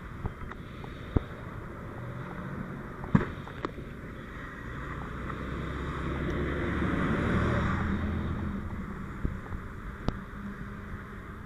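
Vehicle engine running, growing louder to a peak a little past the middle and then fading, with a few short sharp knocks.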